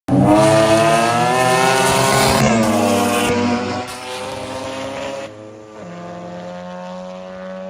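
Turbocharged three-rotor rotary engine of a Mazda RX-7 running hard, cutting in suddenly. About two and a half seconds in its pitch falls away, and it settles to a quieter, steady lower note near the end.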